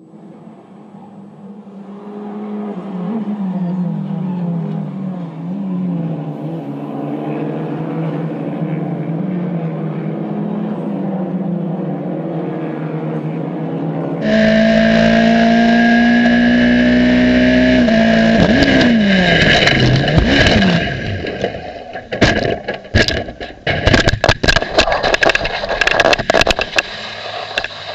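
Racing car engines running hard, their pitch climbing and dropping with gear changes. About halfway through comes a louder, higher-revving engine whose pitch falls away. Near the end there is a rapid run of sharp bangs and scraping, typical of a car crashing.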